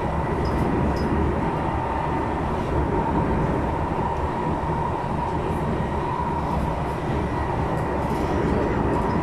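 SMRT metro train running between stations, heard from inside the passenger car: a steady rumble of wheels and running gear with a steady high whine over it.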